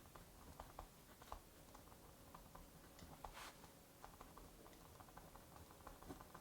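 Faint crackling of a wood fire in a fireplace, many small irregular pops and snaps, over a soft steady hiss of rain.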